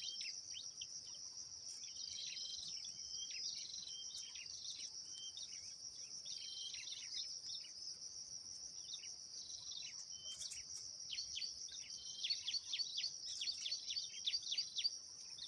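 Small birds chirping with many short, quick downward-sweeping calls, coming faster and louder over the last few seconds, over a steady high-pitched insect trill.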